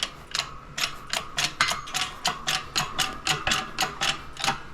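Hand-pumped hydraulic shop press being worked to press a gear onto a transmission shaft: a quick run of sharp metallic clicks, about three or four a second, each with a short ring.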